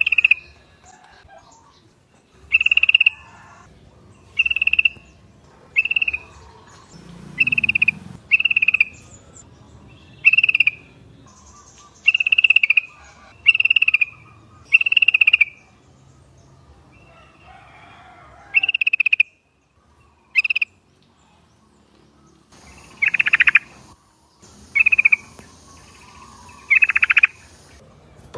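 Yellow-vented bulbul calling: a string of short, bubbly notes repeated about once a second, a pause after the middle, then two longer phrases near the end.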